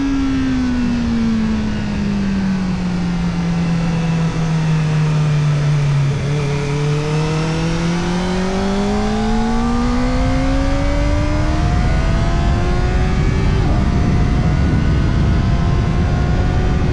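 Kawasaki Ninja ZX-4RR's 399 cc inline-four running through an Arrow Indy Race Evo titanium exhaust with the dB killer fitted, heard on the move. The engine note falls as the revs drop for about six seconds, then climbs steadily in one long pull and levels off about three seconds before the end. Wind rush grows as the speed builds.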